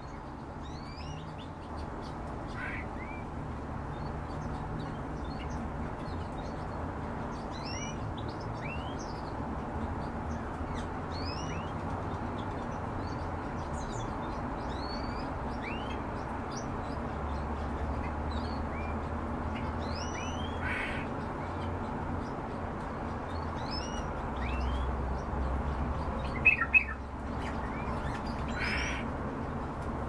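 Small cage birds chirping over and over: many short, quick, rising chirps over a steady background hum, with a few louder calls and two sharp loud calls a few seconds before the end.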